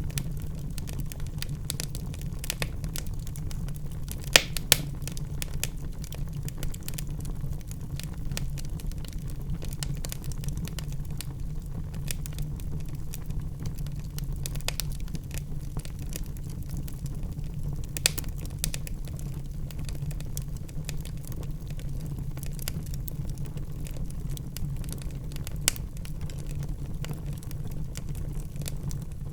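Wood fire in a fireplace burning with a steady low rumble and constant crackling, broken by a few louder pops: a quick pair about four seconds in, another near the middle and one more later on.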